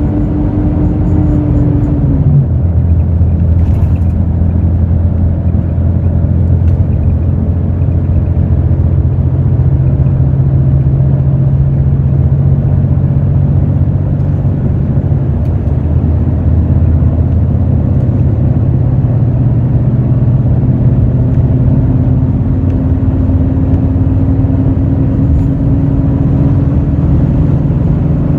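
Hino J08E-VD inline-six diesel engine of a Hino RN8JSVU bus running steadily under way, heard from inside the cabin. A higher whine drops in pitch about two seconds in, then slowly climbs again over the last ten seconds.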